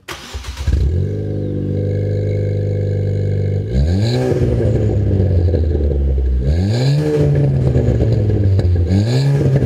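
Ford Fiesta ST's 1.6-litre EcoBoost turbo four-cylinder, fitted with an MBRP 3-inch stainless cat-back exhaust with a single muffler, starting up and settling into a steady idle. It is then revved three times, the pitch rising and falling back with each blip.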